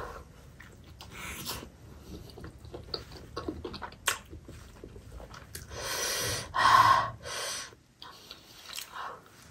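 Close-up chewing of soft steamed chicken momos, wet smacking and clicking mouth sounds. About six seconds in comes a louder breathy sound lasting over a second.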